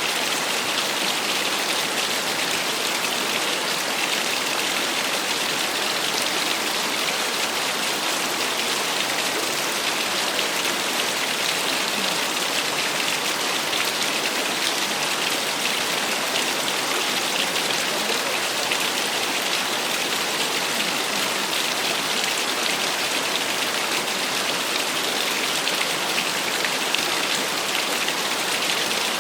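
Small waterfall splashing: a steady, unchanging rush of falling water with a bright, hissy spatter.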